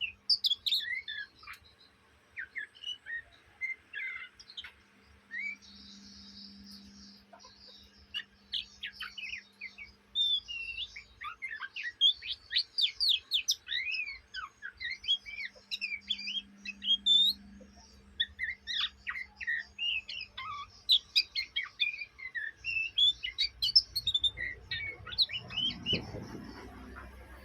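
A young Oriental magpie-robin (kacer) singing a long, rapid twittering song of short, quick, varied notes with brief pauses, the chattering 'ngriwik' style of an untrained young bird.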